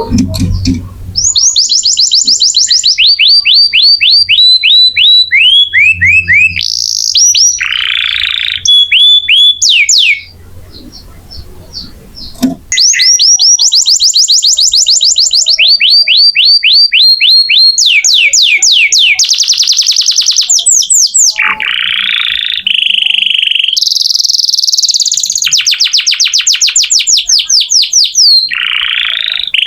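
Domestic canary singing a loud song of rapid runs: the same quick falling whistle repeated many times, switching to a new note every second or two, mixed with fast trills. The song pauses for about two seconds near the middle.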